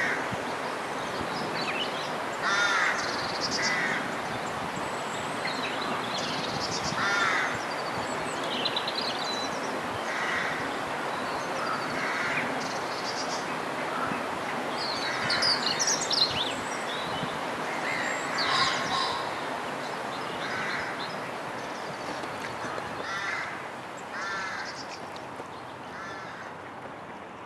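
Harsh bird calls, caw-like and repeated every second or two, some in quick pairs, over a steady rush of wind across open water.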